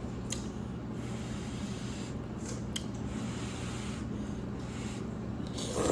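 Someone eating in a quiet mukbang: soft chewing and mouth noises with a few small clicks, over a steady low hum.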